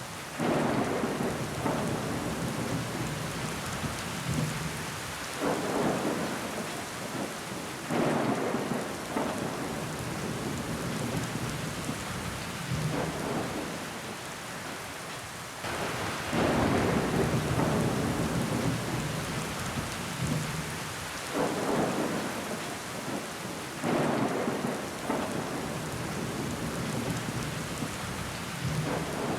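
Steady heavy rain hissing on window glass, with loud surges of downpour every few seconds that start suddenly and fade away.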